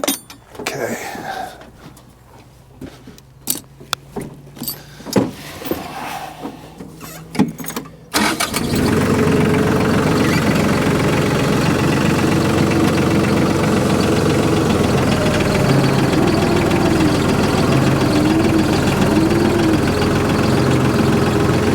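A few scattered clicks and knocks, then about eight seconds in a tractor engine starts and runs steadily and loudly.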